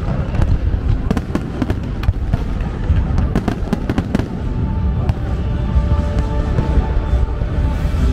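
Fireworks going off in quick succession, a dense run of sharp cracks over deep booms, with music playing alongside. A few held musical tones come in about five seconds in.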